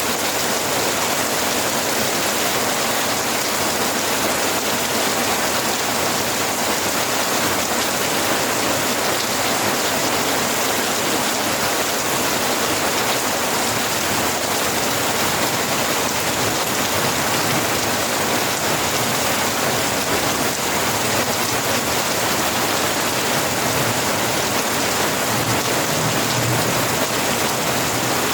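Steady heavy rain falling, an even dense hiss of drops on surfaces that holds level throughout.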